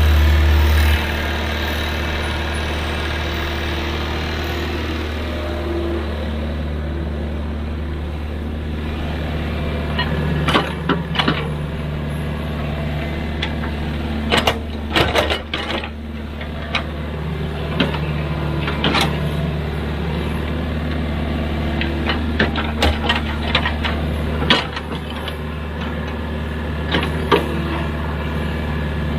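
Excavator's diesel engine running steadily, with scattered sharp metallic clanks and knocks, bunched in the second half.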